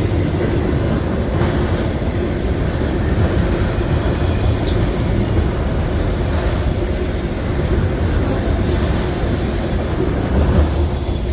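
Train rolling past at close range: a steady, loud rumble of steel wheels on rail with a few faint clicks.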